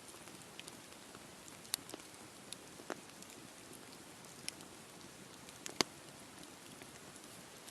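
Wood campfire burning with a steady soft hiss and scattered sharp crackles and pops, a few a second at most. The loudest pop comes near the end.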